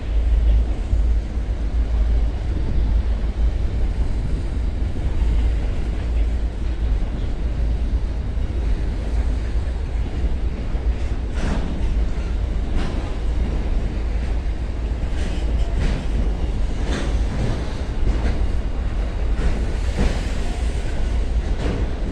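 Slow-moving freight train of hopper wagons rolling past: a steady low rumble, with scattered sharp clicks from the wheels from about halfway on.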